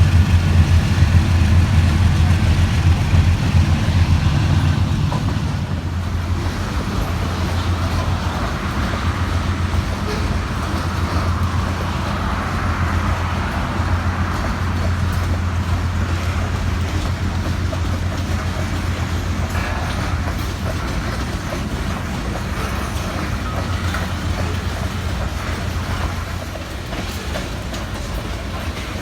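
Freight train passing: a diesel locomotive's low engine drone that eases about five seconds in, then the steady rumble and clatter of freight cars rolling by on the rails.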